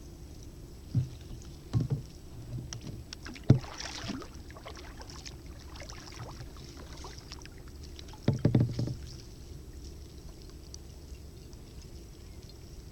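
Kayak on open water with splashing and a crackle of small splashes, and short hollow knocks against the hull: a few in the first four seconds, the loudest about three and a half seconds in, and a longer rattle of knocks about eight and a half seconds in.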